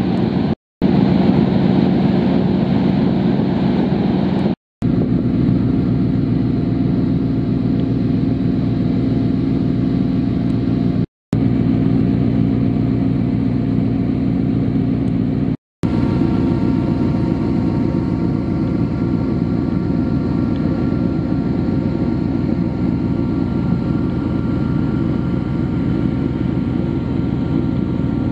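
A boat's engine droning steadily with wind and water noise, cut off abruptly for a split second four times where clips are joined.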